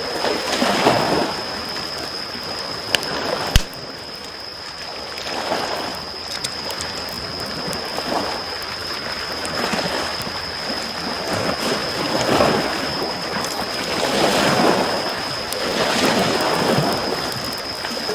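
Small waves washing onto the shore, swelling every two to three seconds, over a crackling campfire. The fire gives two sharp pops about three seconds in, and a thin steady high whine sits underneath throughout.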